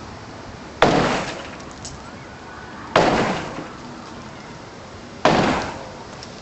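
Three heavy crashing blows about two seconds apart, each with a short breaking, rattling tail, as a covered porch's roof and framing are knocked apart.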